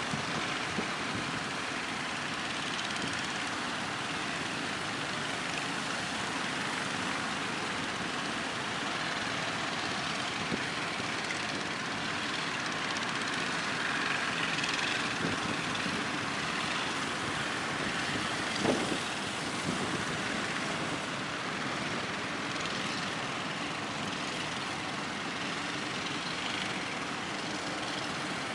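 Steady rushing noise of wind and breaking waves mixed with the engines of small fishing boats running. A brief pitched sound rises and falls about two-thirds of the way through.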